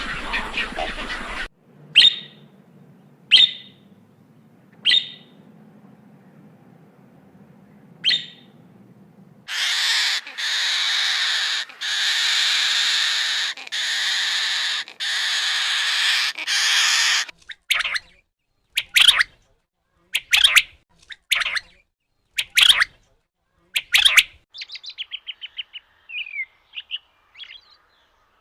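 Calls of several different birds in succession: four short sharp calls spaced a couple of seconds apart, then a run of long harsh rasping calls, then a string of loud sharp calls, and fast twittering trills near the end.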